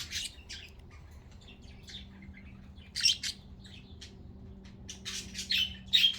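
Pet budgerigars chirping in short, scattered calls, sparse at first and busier in the last second or so.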